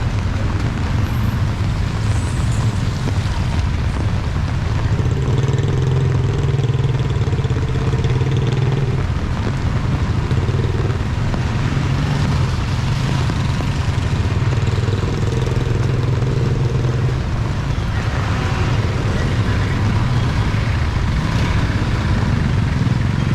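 A motor vehicle engine running steadily, with a note that strengthens twice for a few seconds, over the even hiss of heavy rain.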